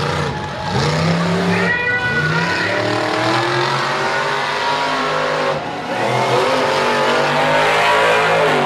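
Mega truck engine revved hard again and again, its pitch climbing and falling with each stab of the throttle and briefly dropping away about five and a half seconds in.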